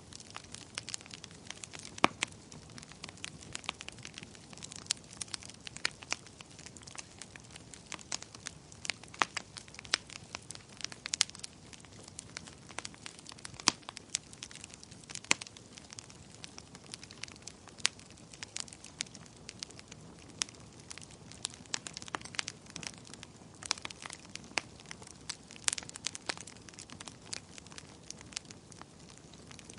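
Wood fire crackling steadily: frequent irregular sharp pops and snaps over a soft low hiss of flames.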